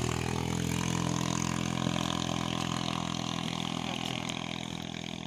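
Motorcycle engine idling steadily, slowly growing fainter.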